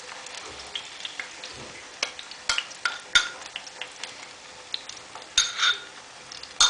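Dough frying in hot oil in a stainless steel frying pan, a steady crackling sizzle. A metal spoon clinks and scrapes against the pan a few times, loudest about five and a half seconds in and again at the end.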